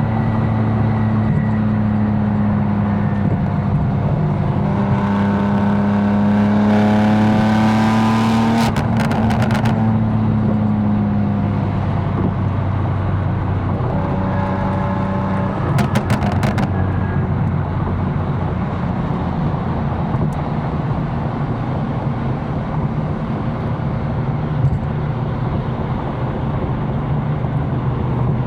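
Tuned BMW M4 engine running under way, its drone steady apart from one climb in revs about five seconds in. Quick runs of crackles from the exhaust come off the throttle around nine seconds and again around sixteen seconds.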